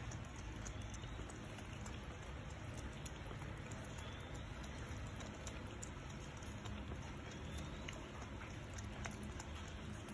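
Steady rain with a scattered patter of small drops and ticks, and a cat lapping water from a plastic basin close by.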